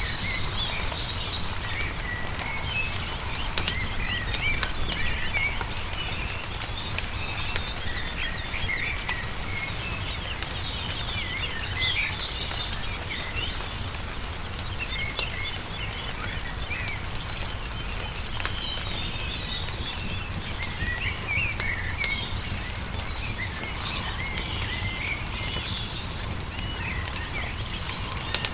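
Wood fire crackling with scattered sharp pops, under many small birds chirping and twittering, over a low steady rumble.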